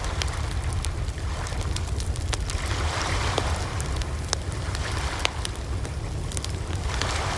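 Campfire burning with scattered sharp crackles and pops over a steady low rumble. A soft rushing swell rises about three seconds in and again near the end.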